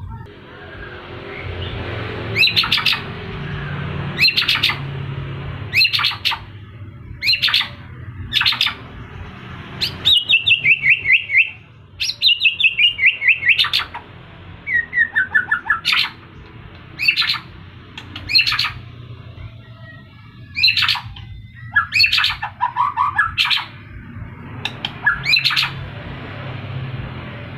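White-rumped shama singing: loud, sharp high notes repeating every second or two, broken by rapid trilled runs around ten to fourteen seconds in, over a steady low hum.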